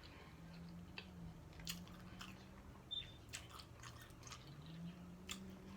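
Quiet chewing of a taco close to the microphone: soft wet mouth sounds and scattered small clicks of biting and chewing. A faint low steady hum runs underneath.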